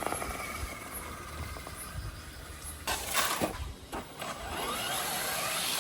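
1:8 scale RC buggy running on wet ground, its motor whirring under a steady wash of noise, with a sudden loud burst of noise about three seconds in.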